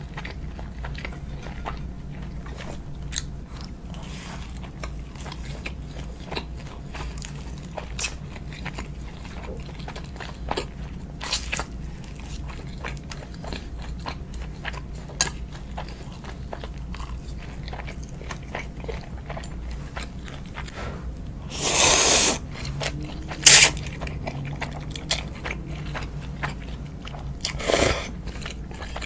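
Close-miked eating: a person chewing with many small clicks, and a few louder bites about two-thirds of the way through and again near the end, over a steady low hum.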